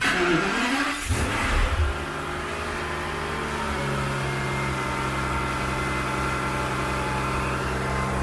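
Aston Martin DB7 Vantage's 5.9-litre V12 starting from cold. The starter cranks for about a second, the engine catches with a brief flare, then settles into a steady idle.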